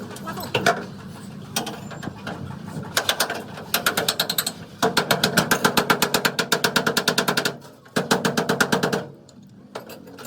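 Rapid runs of metal-on-metal hammer blows, about eight to ten strikes a second, ringing, in three bursts with short pauses between.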